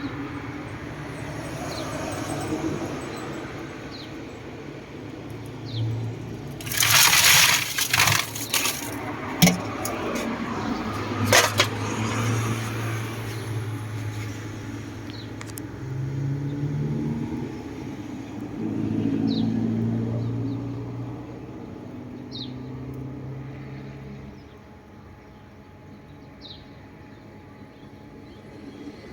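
Crisp crunching of fried bananas in a few loud, crackly bursts, about seven seconds in and again near eleven, over the low hum of passing motor vehicles.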